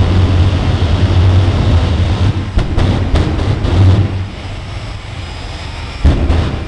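Westinghouse J-34 turbojet of a jet car running at high power: a steady roar with a deep rumble that cuts in sharply, drops away about four seconds in and surges back near the end. A few sharp cracks sound around the middle.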